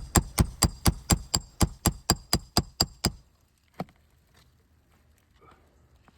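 Roofing hammer striking a steel roof snake in a quick run of about thirteen blows, roughly four a second, each with a metallic ring, working a shingle nail loose to pull it. One lone knock follows about a second after the run stops.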